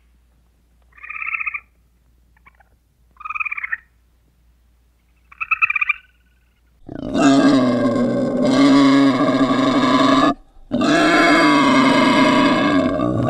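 A red squirrel gives three short calls about two seconds apart. Then, about seven seconds in, a wild boar makes two long, loud, deep calls with a brief break between them.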